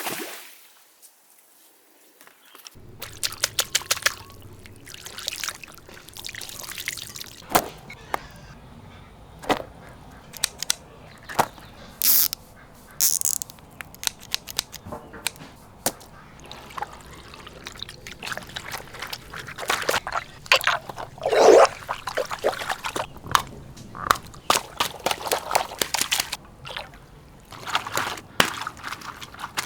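Water pouring and splashing, with many sharp clicks and splats, after a short quiet stretch at the start.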